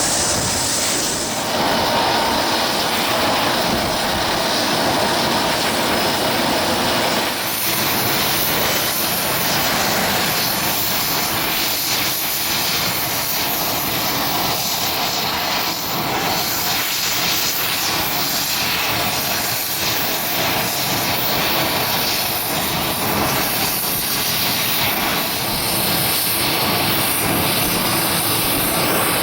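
Business jet's engines running: a steady, loud rush with a high tone held above it.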